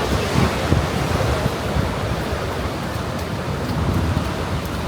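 Ocean surf washing onto a beach in a steady, loud rush, with wind buffeting the microphone in a choppy low rumble.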